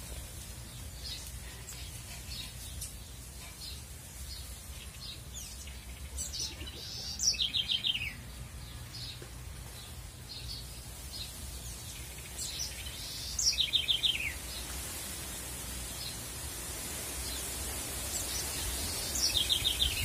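A songbird singing three short phrases about six seconds apart, each a quick run of notes falling in pitch, with scattered faint chirps between them and a steady low rumble underneath.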